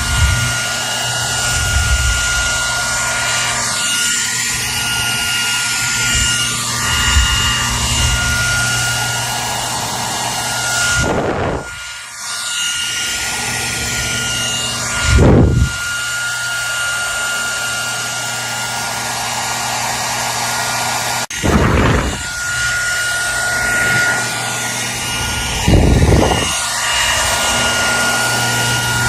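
Hair dryer blowing steadily, its motor whine held over the rush of air. A few times the airflow briefly dips and then gusts against the microphone.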